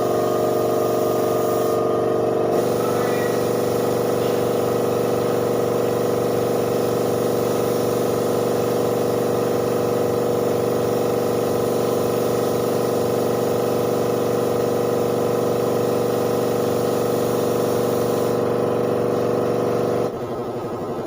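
Air compressor for spray painting running steadily, a constant hum with a hiss of air; it cuts off near the end.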